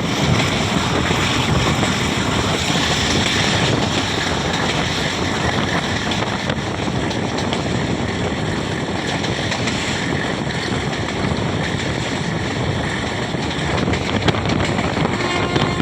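Passenger train running, heard from on board, with heavy wind rushing over the microphone as a loud, steady roar of noise.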